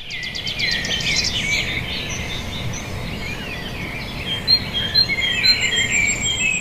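Birds chirping and singing, many quick repeated notes, over a steady low background rumble.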